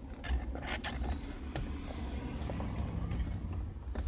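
Hands and a tool working at the screws under a car steering wheel's horn pad: a low rumble of handling with a few small clicks and knocks, the sharpest about a second in.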